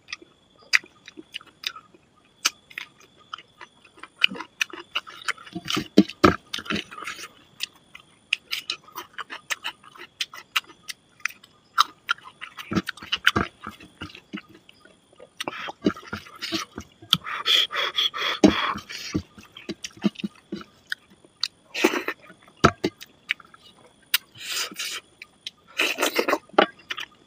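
Close-up eating sounds: a man chewing and smacking his lips as he eats chicken curry and rice by hand, with wet squelches of rice and gravy being mixed with his fingers on a steel plate. The clicks and smacks come irregularly, in thicker clusters of chewing now and then.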